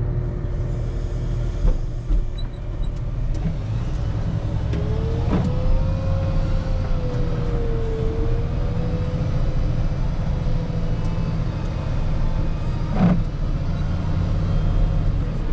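Diesel engine of a rubber-tired wheel loader running steadily while it pushes snow, with a whine that rises and dips and two sharp clunks, one about five seconds in and one near the end.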